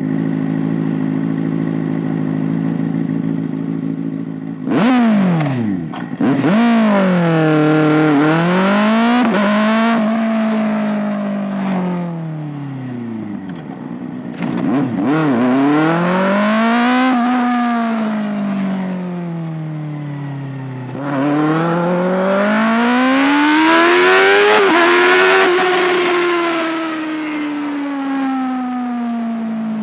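Kawasaki ZX-6R 636's inline-four engine and exhaust, running at a steady pitch for the first few seconds, then revved sharply twice about five seconds in. After that the engine note climbs and falls away slowly several times as it is revved up and eased off.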